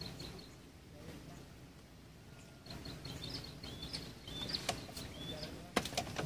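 A small bird chirping over a low steady rumble: a quick run of short repeated chirps at first, then varied chirps and short falling notes from about three seconds in. Near the end come a few sharp knocks as a fishing rod is taken from its rack and raised.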